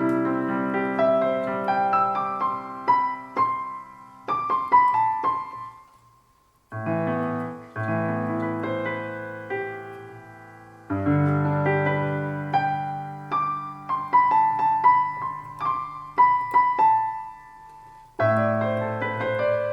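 Roland Juno-DS61 synthesizer playing a piano patch: held chords with single notes picked out above them, in three phrases. A short silence comes about six seconds in.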